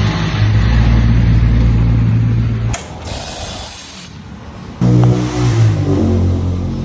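Motorcycle engine running steadily, then cutting off abruptly about three seconds in; after a quieter gap of about two seconds the engine sound comes back suddenly, its pitch shifting.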